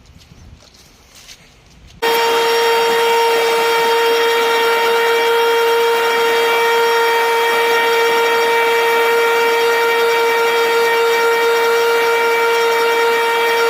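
Leaf blower starting abruptly about two seconds in and running steadily at full power, with a loud, even high whine over a rushing of air.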